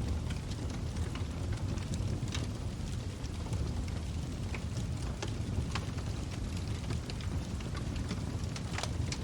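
Log fire burning in a fireplace: a steady low rumble of flames with irregular sharp crackles and pops of the burning wood, one of the louder pops near the end.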